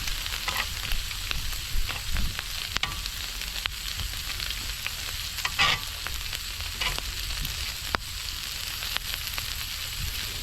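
Slices of pork belly sizzling in a hot pan: a steady frying hiss with scattered sharp pops of spitting fat.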